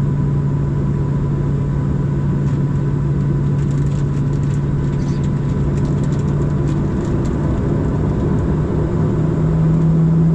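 Steady cabin drone inside a Boeing 737-700 with its jet engines at idle on the ground, a low hum that steps slightly higher about seven seconds in and again near the end.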